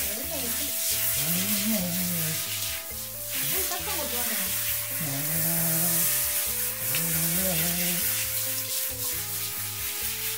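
Water from a handheld shower spraying onto a wet dog's coat and the tiled floor, a steady hiss. Background music plays with it.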